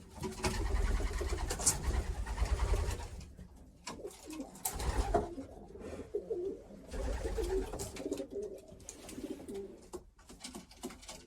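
Racing pigeons cooing in their loft, a repeated low warbling. A low rumble, like wind or handling on the microphone, comes and goes underneath.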